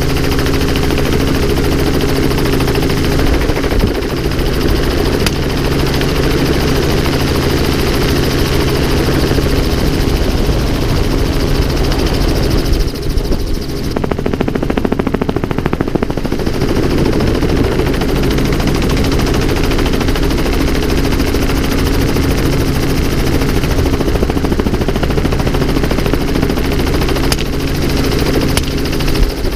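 Helicopter running steadily, with the even drone of its engine and rotor, and a few brief sharp cracks heard over it.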